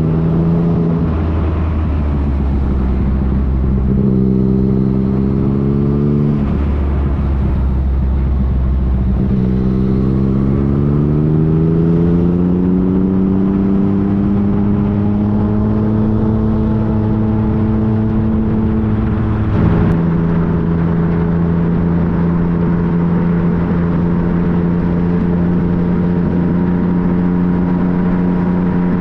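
2015 Yamaha FJ-09's 847 cc three-cylinder engine heard from the bike while riding. Its note drops twice in the first few seconds, climbs steadily under acceleration, then holds with a small drop about two-thirds of the way through, over steady wind and road noise.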